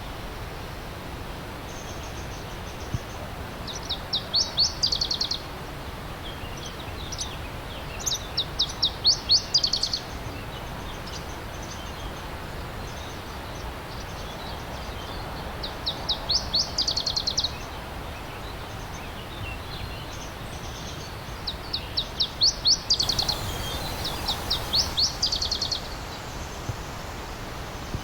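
A songbird singing five short phrases, each a quick run of rapidly repeated, downward-slurred high notes, over the steady rush of a flowing stream.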